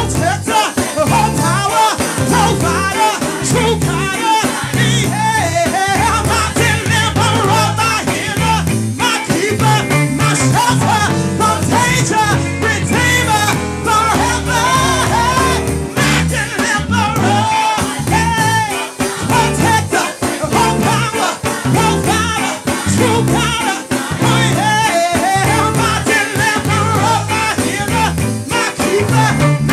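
Live gospel worship music: singers over a band with guitar and a steady rhythmic bass line.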